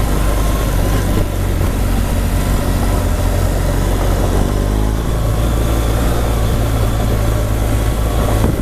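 Motorcycle engine running steadily under way, with a constant low drone and wind rushing over the microphone.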